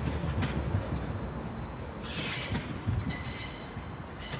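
A Greater Anglia Class 755 bi-mode multiple unit runs away over the tracks with a low rumble that slowly fades. About two seconds in there is a short high hiss, and from about three seconds on the wheels squeal against the rails in a high, ringing tone.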